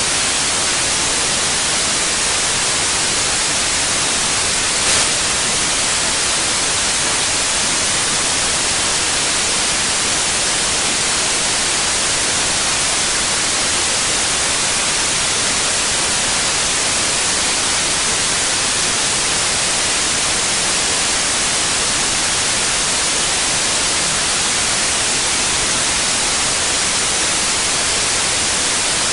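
Steady, unchanging white noise: an even hiss.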